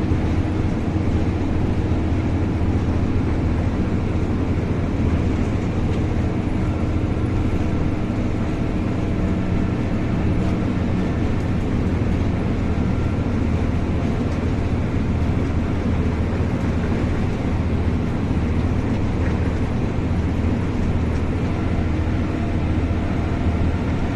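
Strong sandstorm wind blowing steadily across the microphone, a deep, unbroken rush with a faint steady hum underneath.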